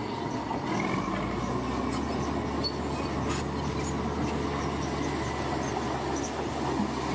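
Bulldozer's diesel engine running steadily under load, with a brief high squeal about a second in and faint clicks, typical of the tracks working.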